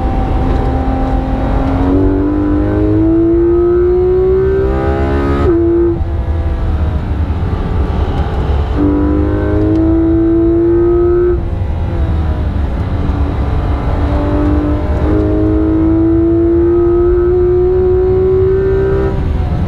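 Porsche 991.2 GT3 RS's naturally aspirated 4.0-litre flat-six heard inside the cabin, revving up hard with rising pitch three times, with sharp breaks in the engine note between pulls. A steady low rumble of tyres and road runs underneath.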